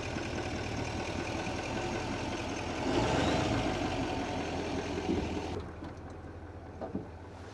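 An engine running steadily with a low hum, rising around three seconds in, then fading away after about five and a half seconds.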